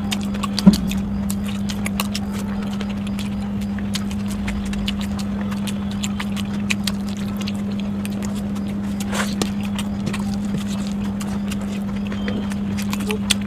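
Close-miked eating: wet chewing and mouth clicks and smacks, with one sharper click about a second in. A steady low hum runs underneath.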